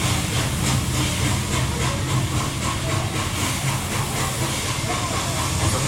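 Steam locomotive 3016 working hard, heard from the carriage behind: a rhythmic exhaust chuff at about four beats a second over a steady low rumble of the moving train.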